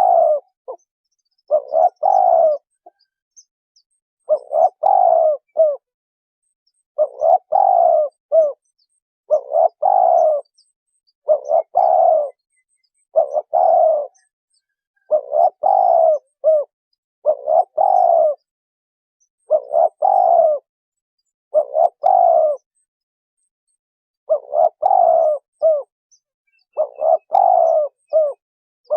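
Spotted dove cooing, repeating the same short phrase of a few coos about every two seconds, clear and close.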